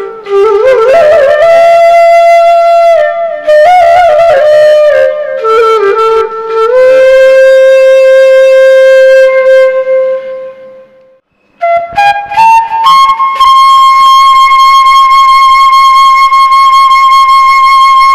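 Background music: a slow solo flute melody with long held notes. It fades away about ten seconds in, then starts again with one long held high note.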